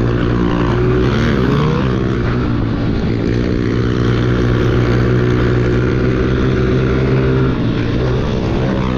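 Pit bike engine running at a fairly steady pitch under way. A second bike's engine briefly rises and falls in pitch between one and two seconds in.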